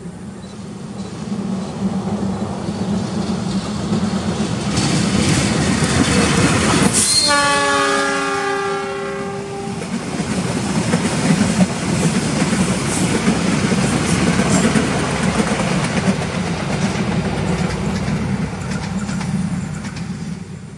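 A train hauled by a CC 206 diesel-electric locomotive passes close by. Its multi-tone horn sounds for two to three seconds about seven seconds in. The rumble and clatter of the wheels on the rails build up, stay loud, and fall away near the end.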